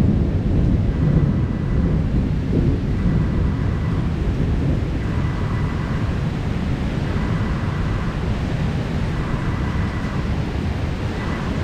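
Thunder rumbling low and long over a steady, heavy downpour, the rumble easing gradually.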